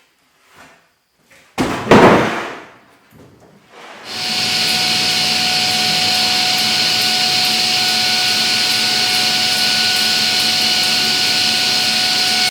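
A loud knock with a noisy tail, then about four seconds in an electric woodshop machine starts and runs steadily with a whine until it cuts off abruptly.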